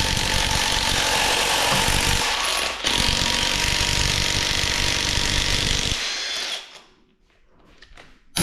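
3/8-inch drive impact wrench hammering at a bolt on a GM 2.4 EcoTec engine, running for about six and a half seconds with a brief break near three seconds, then stopping. A few small clicks follow.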